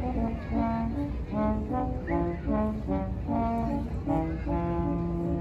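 Music played on a brass instrument: a slow melody of held notes, ending on one long low note.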